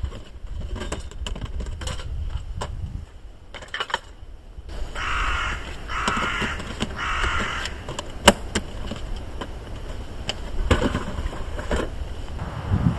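A crow cawing three times in a row, harsh calls about half a second each, with scattered sharp clicks and a low rumble around it.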